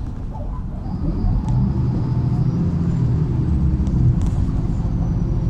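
Inside a MAZ-103 city bus: the diesel engine and drivetrain run with a steady low rumble, growing louder about a second in, with a few light clicks and rattles from the cabin.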